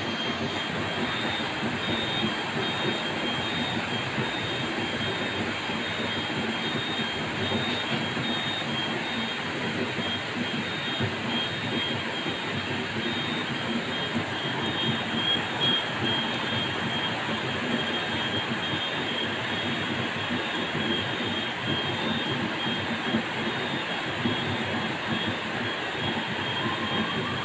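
Heavy thunderstorm rain pouring down, a steady, even rushing noise with no distinct thunder claps.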